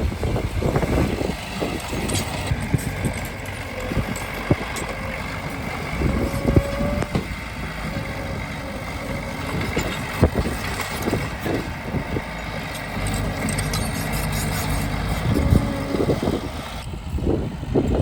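Heavy earthmoving machinery at work: a diesel engine running steadily, with irregular metallic clanks and knocks throughout.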